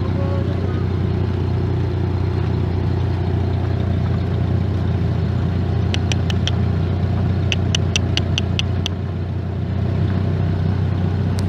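Car engine running at low speed with a steady low rumble inside the cabin. Short runs of quick sharp ticks, about five a second, come in about halfway through and again near the end.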